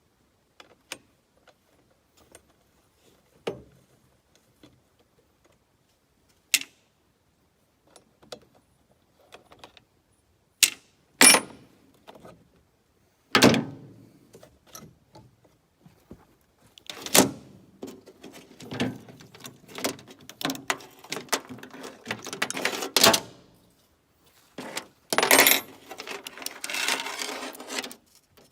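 Metal clicks, clinks and rattles of a chainsaw chain being handled and fitted onto the bar during a chain swap: a few scattered knocks at first, then more continuous jangling in the second half.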